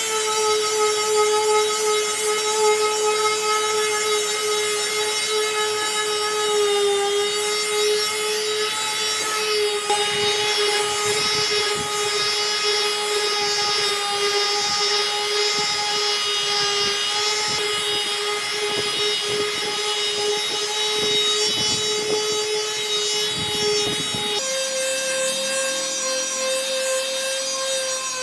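Electric wood lathe running with a steady whine while a tool rubs and scrapes the spinning wood. About 24 seconds in, the whine steps up a little in pitch and the rubbing stops.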